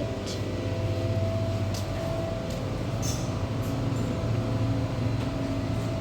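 Steady low machine hum with a few faint fixed tones above it and occasional light clicks.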